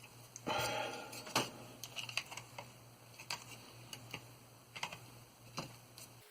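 Hard plastic model parts being handled and fitted: a short scrape about half a second in, then scattered light clicks and taps. A low steady hum runs underneath and stops just before the end.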